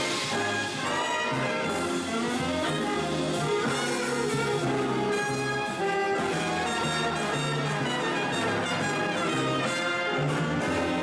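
Swing band with a brass section of trumpets and trombones playing an instrumental passage over a steady bass and drums.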